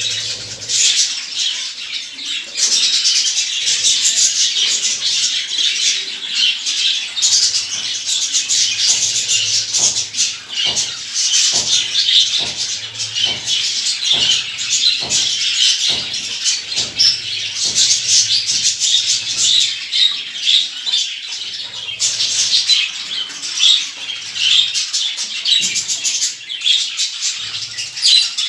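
A flock of small captive birds chirping continuously, many calls overlapping. Through the middle comes a run of sharp taps, about two a second.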